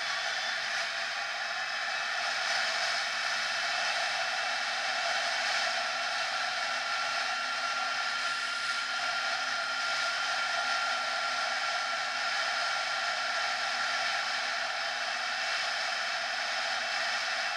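Honda NSR 50's small two-stroke single-cylinder engine running steadily under way, its buzz mixed with a rush of air, and a thin whine held through the middle.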